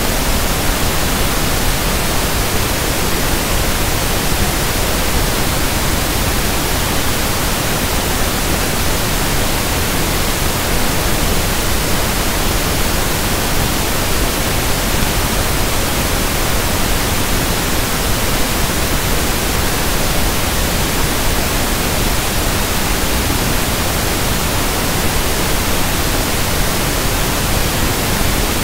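Steady, unchanging pink noise (1/f noise): an even hiss across the whole range with no events or changes.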